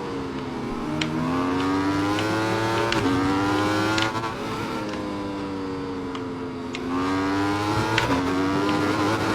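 Aprilia motorcycle engine under acceleration. The pitch climbs, drops sharply about three seconds in as it shifts up, then climbs briefly again. It eases off with a lower, slowly falling note from about four to seven seconds, then climbs again with another upshift near the end.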